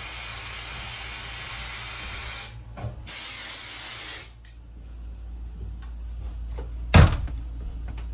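Aerosol insect-spray can hissing in a continuous spray, breaking off for a moment about two and a half seconds in, spraying again and stopping after about four seconds. A single loud thump near the end.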